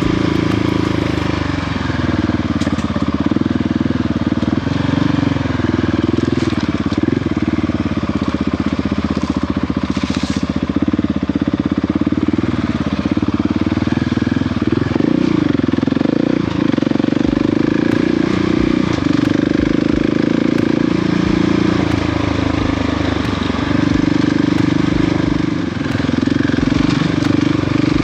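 Adventure motorcycle engine running steadily while riding an off-road trail, its pitch rising and falling slightly as the throttle changes.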